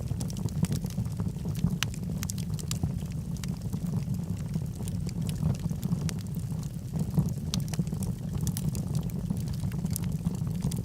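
Wood logs burning in a fireplace: a steady low rumble of flames with frequent, irregular small crackles and pops.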